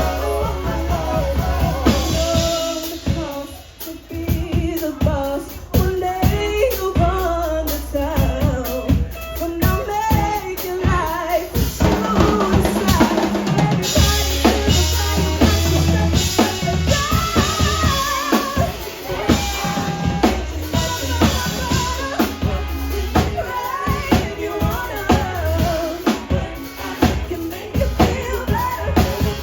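Live band playing with a full drum kit, bass and sung or melodic lines over a steady beat; the music thins out briefly about three to four seconds in, then the band plays on.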